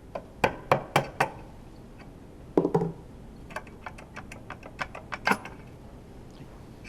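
Metal tools and engine parts clinking and knocking as they are handled. There is a quick run of four sharp knocks in the first second or so, a duller clunk near three seconds, then lighter ticks and one more sharp knock after five seconds.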